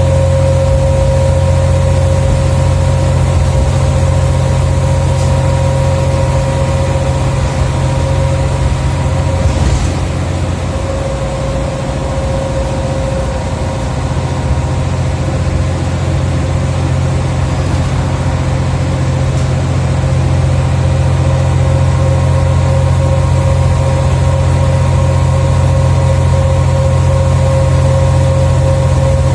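Scania OmniCity single-decker bus engine running steadily, heard from inside the bus, with a steady higher tone over the low drone. It eases slightly about ten seconds in, then picks up again.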